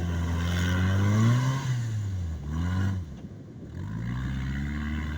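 Toyota 1NZ-FE 1.5-litre four-cylinder petrol engine of an all-terrain vehicle revving up and easing off twice, dropping nearly to idle about three seconds in, then picking up again and holding steady, as the vehicle makes skid-steer turns by braking one side.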